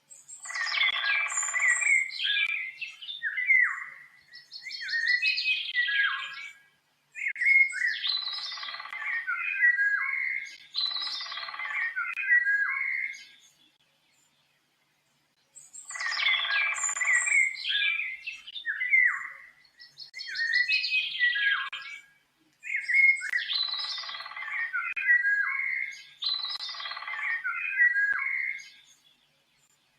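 Songbird singing in busy chirping, warbling phrases a few seconds long, with short silent gaps between them; the same sequence of phrases, about fourteen seconds long, plays twice as a loop.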